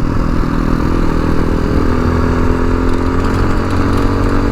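Tao Motor TBR7 dual-sport motorcycle engine running steadily while riding, with low wind rumble. The engine note drops a little about two seconds in and rises again near the end.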